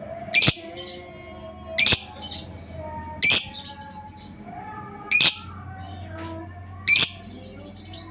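Lovebird calling: five short, shrill screeches, one every one and a half to two seconds, over steady softer twittering from other birds.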